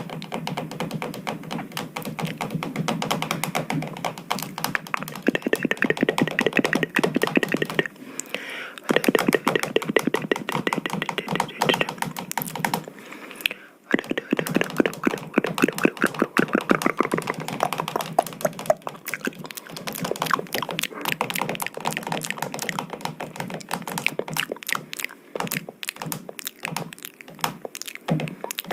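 Rapid tapping on a hard object: a dense, continuous run of many small knocks each second, with short breaks about eight and fourteen seconds in.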